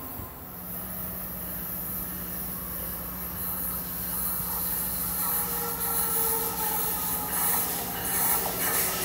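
Amtrak train led by an ACS-64 electric locomotive approaching, its hiss of wheels on rail growing steadily louder. Faint high ringing tones join about halfway through.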